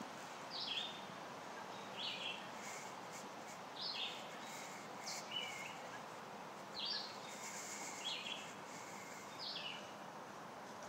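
A bird calling over and over, short high chirps about once a second, over a steady outdoor background hiss.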